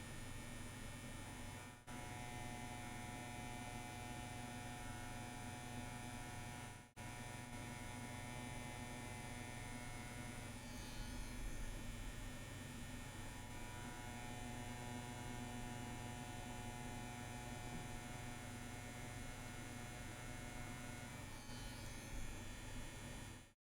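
CNC WE tattoo machine buzzing steadily as it runs, a constant electric hum with a stack of even tones; it drops out briefly twice, about 2 and 7 seconds in.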